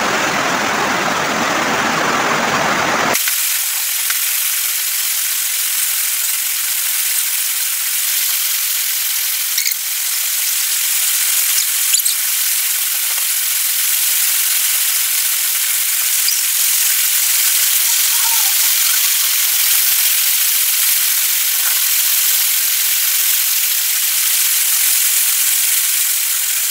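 Rice frying in a hot wok while it is stirred and turned with a spatula, giving a steady sizzling hiss. The first few seconds are fuller, then it settles into a thinner, even hiss with a few faint scrapes.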